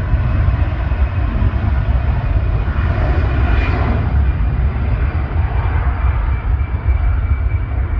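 Jet airliner engines running: a steady heavy rumble with a faint high whine on top, swelling slightly a little past the middle.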